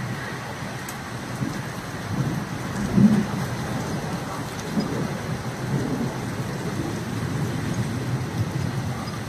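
Heavy rain falling steadily, with low thunder rumbling and swelling several times, the loudest rumble about three seconds in.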